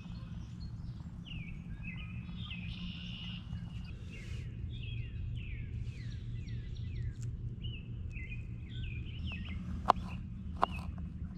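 Small birds singing, many quick chirps that sweep down in pitch, over a steady low rumble. A few sharp clicks near the end.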